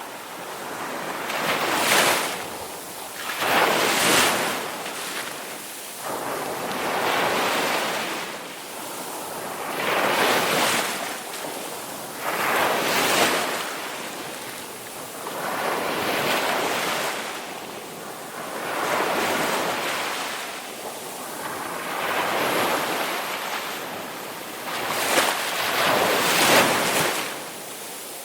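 Ocean waves washing in, one surge after another every few seconds, each swelling up and falling away.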